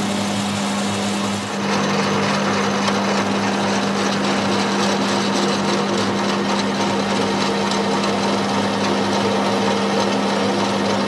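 A workshop machine running steadily with a constant hum, dipping briefly about a second and a half in.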